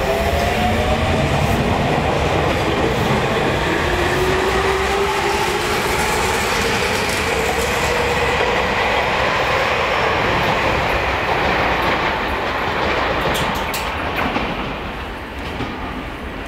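Electric commuter train pulling through the station, its motor whine slowly rising in pitch as it gathers speed and its wheels clacking over the rail joints. The sound fades about 15 seconds in as the train moves away.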